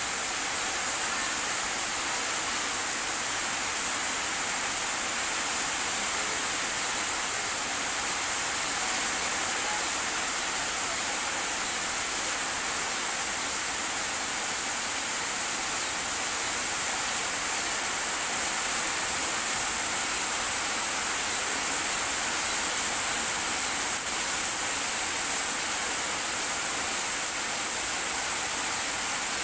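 Steady rain falling: an even hiss that keeps up without a break.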